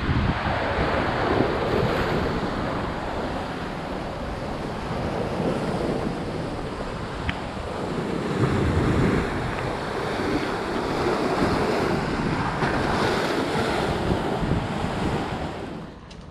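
Steady rush of wind and surf, with gusts buffeting the microphone in surging low rumbles. The sound drops off sharply near the end.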